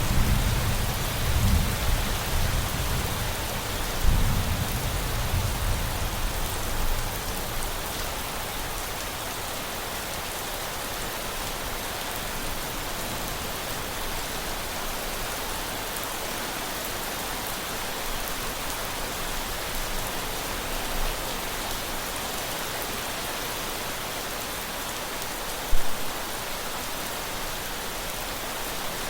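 Steady heavy rain falling, with low thunder rumbling through the first several seconds and fading out. Near the end there is a single brief loud knock.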